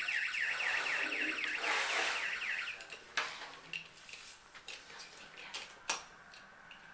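Electronic toy police-car siren yelping, a rapid run of falling high-pitched sweeps that stops about three seconds in, followed by a few sharp clicks of plastic toys being handled.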